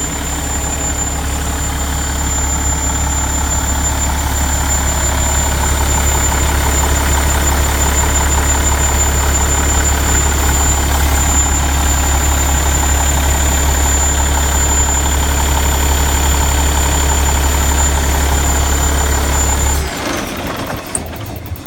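Cummins ISX 550 hp straight-six diesel in a Peterbilt 389 tractor idling steadily with a deep, even hum. The sound drops off abruptly near the end.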